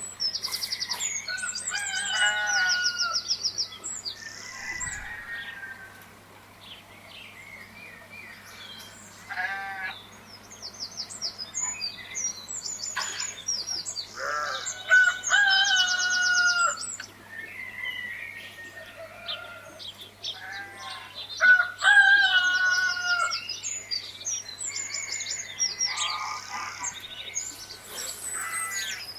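Farmyard birds: small birds chirping and trilling repeatedly, with chickens clucking and a rooster crowing at intervals.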